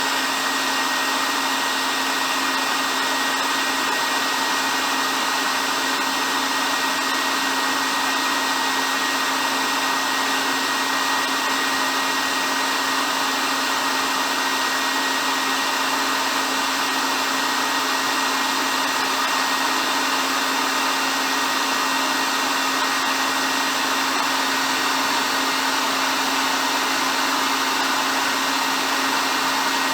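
Hair dryer running steadily: an even rush of blown air with a constant low motor hum and a faint high whine, never changing speed.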